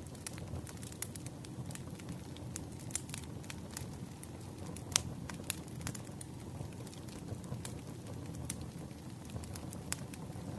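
Wood campfire crackling: a steady low rumble of burning with scattered sharp pops and snaps throughout, a few of them louder.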